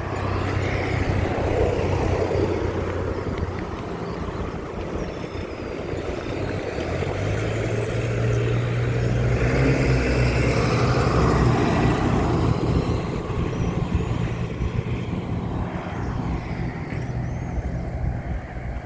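Motor vehicle engine running steadily with road and wind noise; its hum shifts higher about seven seconds in.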